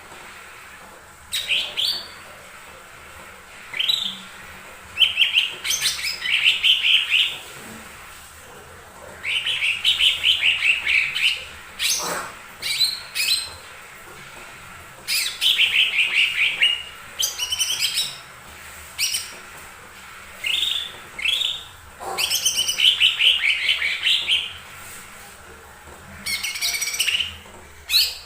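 Lesser green leafbird (cucak ijo mini) singing in a run of short, loud phrases of quick chirping trills, with brief pauses between phrases.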